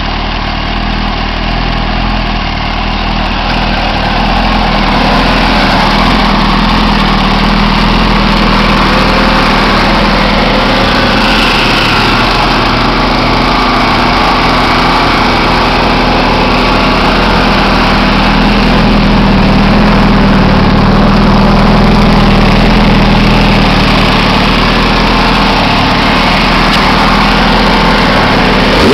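2007 Yamaha R1's inline-four engine idling steadily through aftermarket Akrapovic carbon mufflers.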